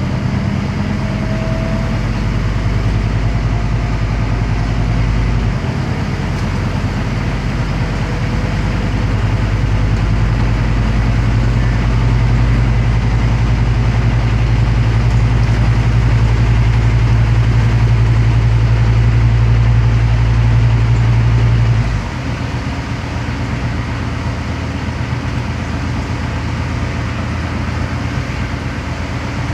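Scania CN270UB city bus's diesel engine running under way. The engine note changes about five seconds in, then pulls steadily, growing slightly louder. About three quarters through it drops back suddenly to a quieter, lower note as the throttle comes off.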